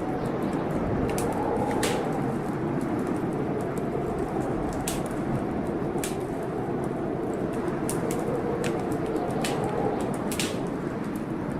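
Wood fire crackling in a fireplace, with sharp pops at irregular moments, over a steady storm rumble of wind and rain.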